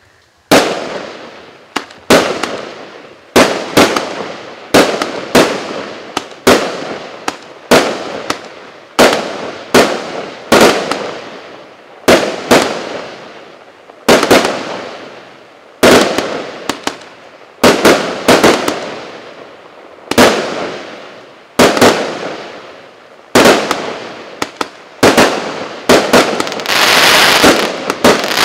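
Multi-shot fireworks cake (a 578-shot battery of 0.8-, 1.0- and 1.2-inch tubes) firing shot after shot, about one to two sharp bangs a second, each trailing off over about a second. Near the end the separate bangs run together into a dense crackling.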